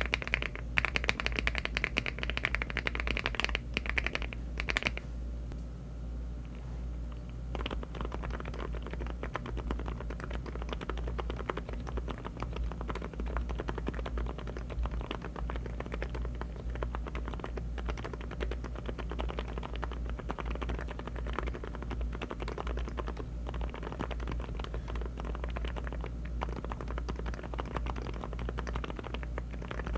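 Fast typing on a LEOBOG Hi75 aluminium mechanical keyboard. For the first few seconds it is HMX Glaze Jade switches, with sharp, bright clacks. After a short lull, from about seven seconds in, it is HMX Silent Sakura silent switches, and the keystrokes come out duller and muted for the rest.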